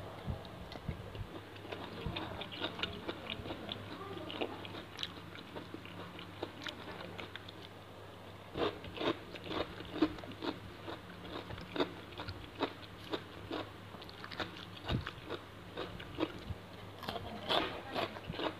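A person biting and chewing raw shrimp cured in fish sauce, the flesh made crunchy by a soda-water soak: wet, crisp chewing clicks. About halfway through the chewing grows louder and settles into a regular beat of about two chews a second.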